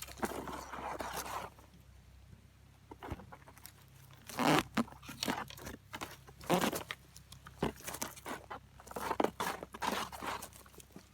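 Gravel crunching and scraping in irregular short bursts, as when a digging tool works into gravelly ground to recover a detector target.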